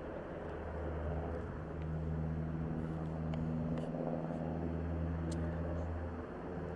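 A steady low engine drone at a constant pitch.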